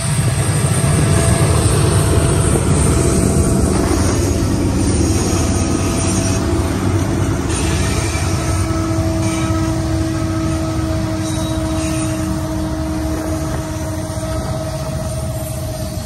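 Union Pacific diesel-electric freight locomotives passing close by with a loud, deep engine rumble, followed by freight cars rolling past on the rails.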